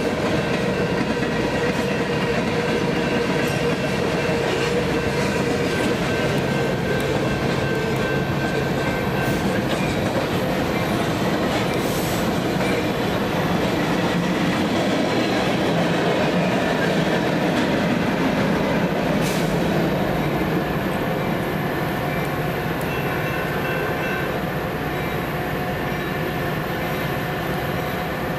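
Train cars rolling past close by, wheels clattering over the rails with a steady squeal of wheels on rail, easing off slightly near the end.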